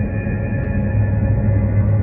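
Dark ambient horror drone: a steady, deep hum with fainter held higher tones above it.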